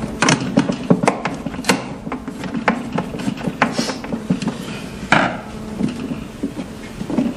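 Hands working on a 3D sublimation vacuum heat press machine's casing: a run of irregular clicks, taps and rubbing of parts being handled and fitted back together.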